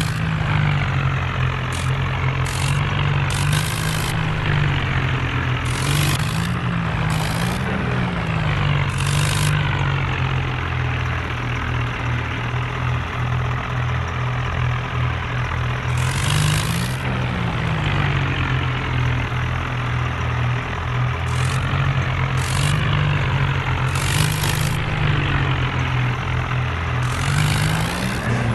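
John Deere tractor's diesel engine running steadily, its pitch rising briefly a few times, with short bursts of hiss every few seconds.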